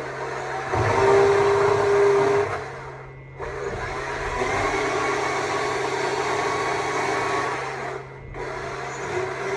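Stihl MSA 200 C battery chainsaw running and cutting wood, a steady motor whine with the chain biting in. The saw is loudest for a second or two near the start and eases off briefly twice, about three seconds and about eight seconds in.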